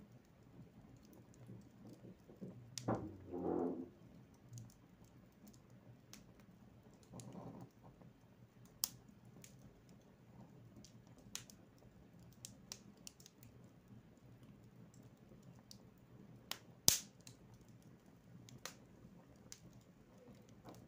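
Wood fire crackling in a fireplace: scattered sharp pops and snaps at irregular intervals, the loudest about seventeen seconds in, with a short muffled sound about three seconds in.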